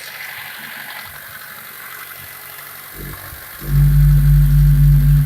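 Mitsubishi 4G92 1.6-litre four-cylinder petrol engine starting: a faint hiss, then a short sound about three seconds in, and the engine catches and runs loud and steady.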